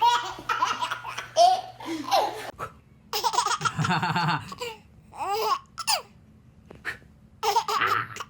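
Laughter, a baby's among it, coming in several bursts with short pauses between.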